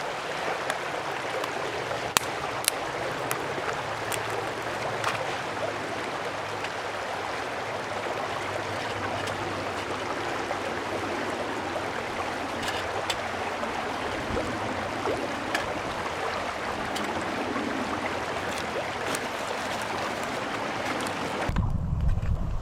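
Mountain stream flowing steadily, an even rushing of water, with scattered sharp clicks over it. About a second before the end the sound changes to a low rumble of wind buffeting the microphone.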